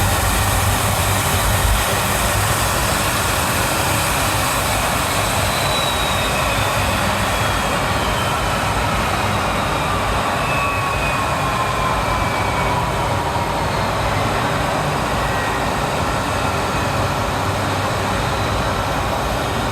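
Jet airliner's engines running with a steady rushing noise as it taxis in to the gate. A faint whine falls slowly in pitch from about five to fifteen seconds in.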